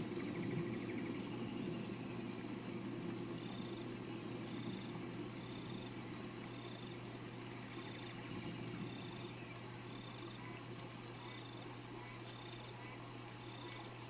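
Steady rain hiss with a low rumble that dies away over the first few seconds, and a short, high chirp repeated evenly about once or twice a second from a few seconds in.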